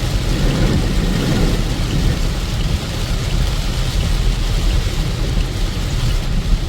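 Heavy rain falling steadily, an even hiss with a continuous low rumble underneath.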